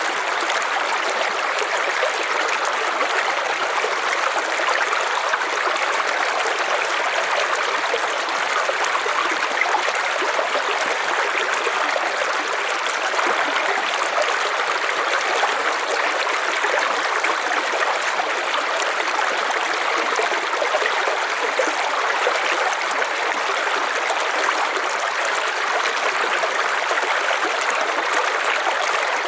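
River water flowing and rushing over stones, a steady, even rush with no pauses.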